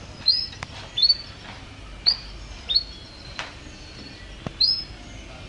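Domestic canary chirping: a short call that sweeps up sharply and then levels off, repeated about once a second. Several sharp clicks fall between the calls.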